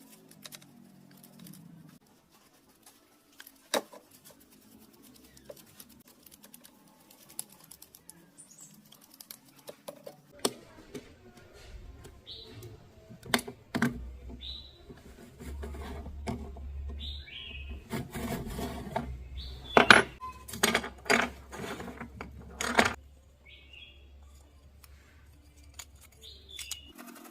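Irregular sharp clicks and knocks of small parts and tools being handled, busiest and loudest in the second half, with a few short high squeaks. A low steady hum sets in about ten seconds in and stops just before the end.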